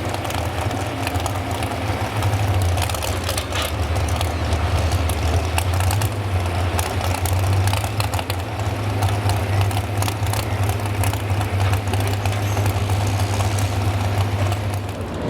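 Modified 4x4 pulling truck's engine idling steadily, with a low, even hum and scattered clicks over it.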